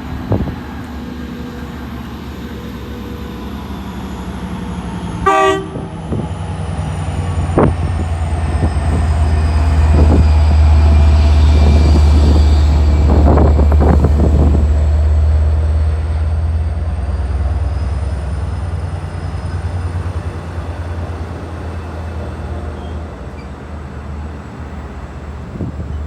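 A train passing with a short toot of its horn about five seconds in, then a heavy low rumble that builds to a peak mid-way and slowly fades, with a few sharp knocks as it goes by.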